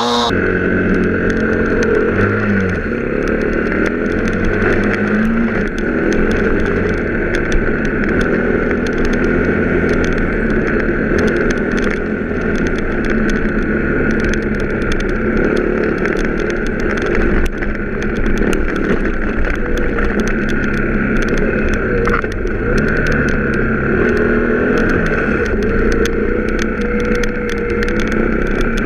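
Motocross bike engine running at a fairly steady speed as it is ridden, its pitch rising and falling slightly now and then.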